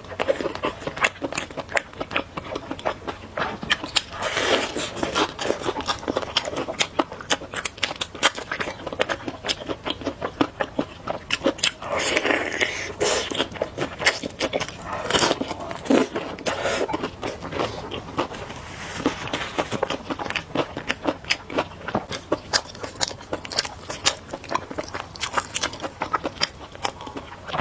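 Close-miked eating of spicy noodles: steady chewing with many quick wet mouth clicks, broken by a few longer noisy stretches about a second long.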